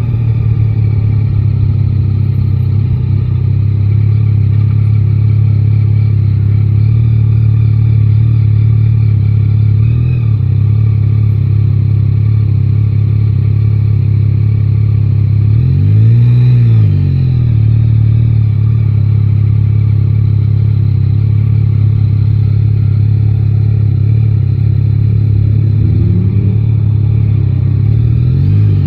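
Yamaha Tracer 9 GT motorcycle's engine running steadily while riding in city traffic. It revs up and back down once about sixteen seconds in, and briefly again near the end.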